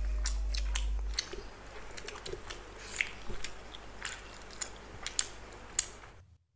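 Close-miked mouth sounds of people eating by hand: chewing and biting, with many short wet clicks and smacks, as they eat boiled egg and chicken gizzard curry with rice. A low hum sounds during the first second, and the sound cuts out just before the end.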